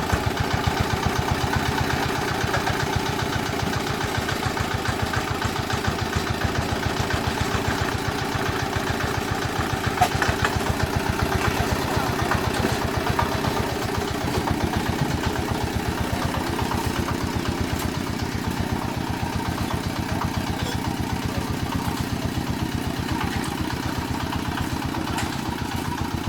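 D8 single-cylinder diesel engine running steadily at idle, its firing strokes coming as an even rhythm of knocks, with one sharp click about ten seconds in.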